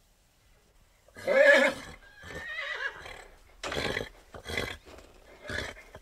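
A horse neighing: a loud whinny starts about a second in, followed by four shorter bursts.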